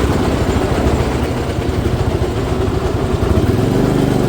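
Motorcycle engine running steadily while riding, a little louder near the end.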